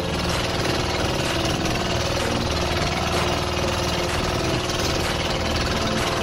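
Motorised outrigger boat's engine running steadily at cruising speed, with water splashing along the hull and wind as the boat moves through open sea.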